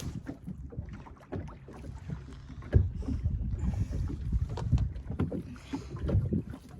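Choppy water slapping and knocking irregularly against the hull of a small aluminium dinghy as it rocks, with some wind on the microphone.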